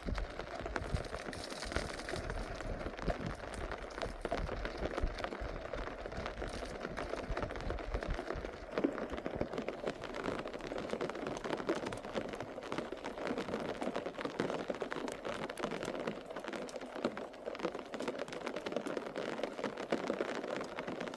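Steady rain pattering, a dense, even spatter of drops, with a low rumble underneath for the first several seconds.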